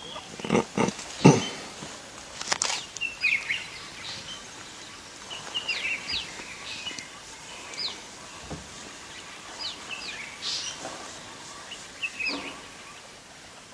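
A few loud knocks or rustles in the first second and a half, then a small bird giving short chirping calls, quick little pitch glides in groups of two or three, repeated every couple of seconds.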